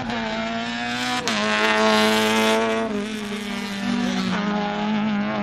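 Hatchback slalom car's engine revving hard through the cone course, the pitch dropping and climbing again about a second in and once more about four seconds in.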